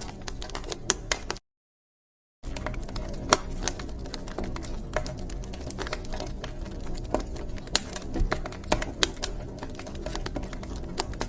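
Wood fire crackling in a fireplace: irregular sharp pops and snaps over a steady low rumble. The sound drops out completely for about a second near the start.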